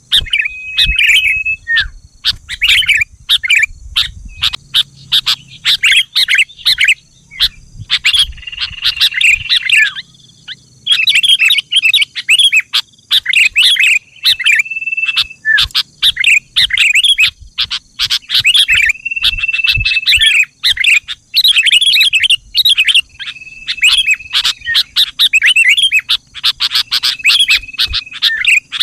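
Sooty-headed bulbul (kutilang) singing: quick, bubbly chattering phrases, broken every few seconds by a short, steady whistled note.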